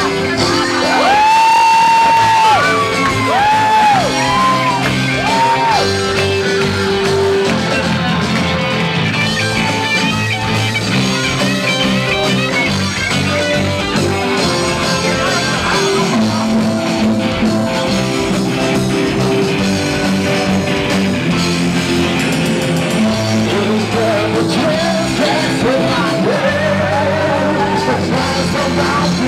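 Rock band playing a song with sung vocals, loud and steady, with sliding, arching melody lines near the start and again near the end.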